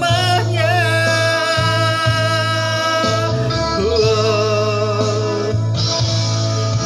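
A song in Malay, sung with long held notes and vibrato over backing music.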